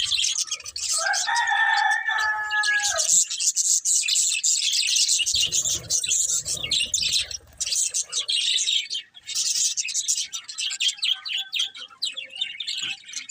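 Budgerigars chirping and chattering in a dense, continuous stream of quick high twitters. A longer, lower held call stands out for about two seconds near the start.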